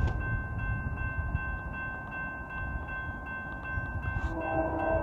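Low rumble of a Norfolk Southern freight train fading as it pulls away, with steady high tones throughout. About four seconds in, a chord of several steady, chime-like tones comes in.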